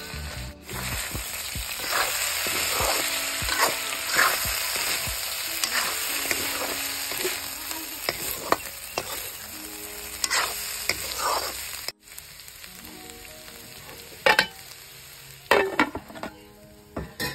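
Pork pieces and onions sizzling in oil in a wok while a spatula stirs and scrapes against the metal. About twelve seconds in the sizzle cuts off, and a few sharp metal clanks from the wok's lid follow.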